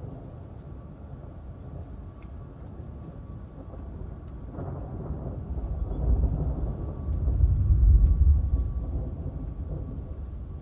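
Rolling thunder: a deep rumble that swells about halfway through, is loudest a couple of seconds before the end, then dies away, over steady rain. A faint steady hum sits underneath.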